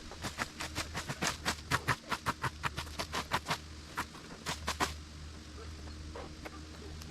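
A quick run of sharp clicks and crackles, about four or five a second, thinning out after about five seconds, over a steady low hum.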